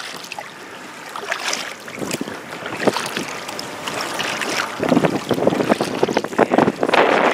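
Strong wind buffeting the microphone, with water splashing and slapping against a kayak. It gets louder and rougher about five seconds in.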